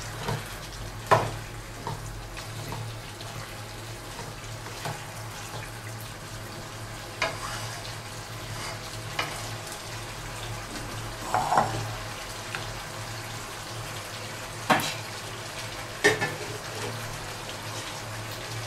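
Chicken pieces sizzling steadily as they fry in an oily masala in a non-stick pot, with a few sharp taps of utensils against the pot, the loudest about a second in and again near fifteen seconds.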